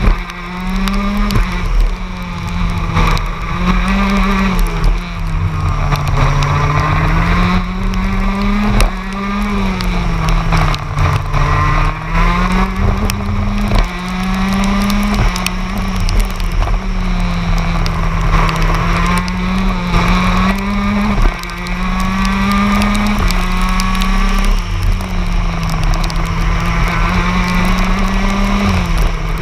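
TM K9ES 125 cc two-stroke shifter kart engine, heard onboard at racing speed: its note climbs and falls again and again every few seconds, with sudden steps in pitch as gears are changed.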